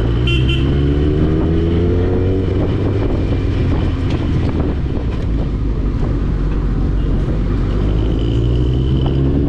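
Sport motorcycle engine running at speed, rising in pitch as it accelerates for the first couple of seconds and again near the end, over a steady rush of noise.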